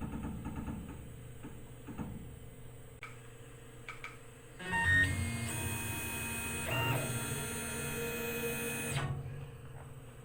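Tormach PCNC 1100 mill's stepper-motor axis drive jogging: a whine of several steady tones starts about four and a half seconds in, shifts pitch briefly near seven seconds and stops about nine seconds in. Before it, a low machine hum.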